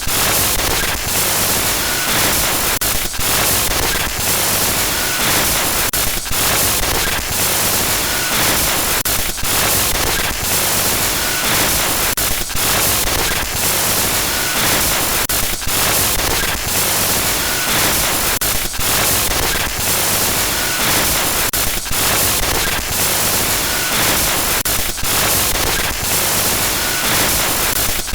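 Electronic glitch noise: loud, harsh static that stutters with short dropouts, repeating in a loop about every three seconds.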